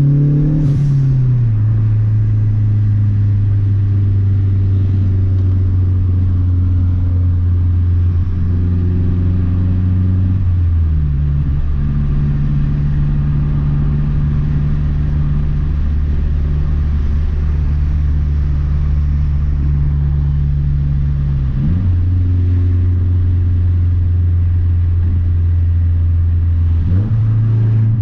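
2012 Mazdaspeed 3's turbocharged 2.3-litre four-cylinder engine under way at a steady low drone. Its pitch drops a step about a second in and again near the middle, then rises twice in the last third.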